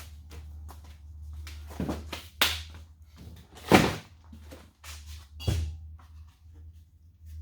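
A few sharp knocks and clunks of tools and engine parts being handled during engine assembly, the loudest about four seconds in, over a steady low hum.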